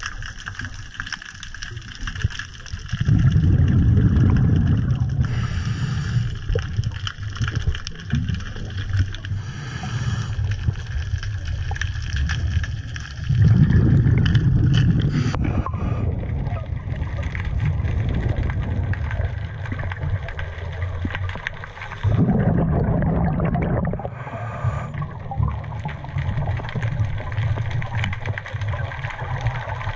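Scuba diver breathing through a regulator underwater, heard through the camera's waterproof housing: three long low rumbling exhalations of bubbles, about one every nine or ten seconds, with short hisses between them.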